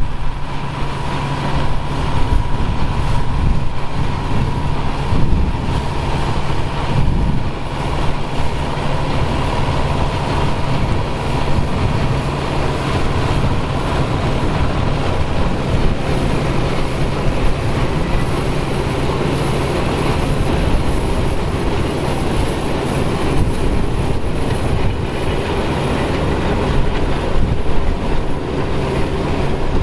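Engine of vintage harvest machinery running steadily at a constant speed, a low even note with mechanical noise over it.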